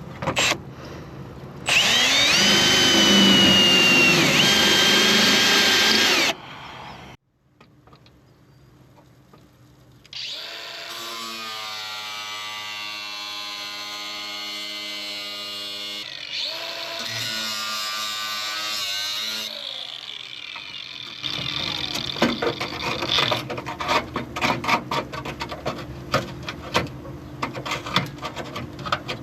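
Power tools working on a car's rusted steel body panels: a loud whining tool whose pitch dips and recovers under load for about five seconds, then, after a short pause, a steady motor drone at an even pitch, and near the end a run of rapid, irregular cracks and clicks.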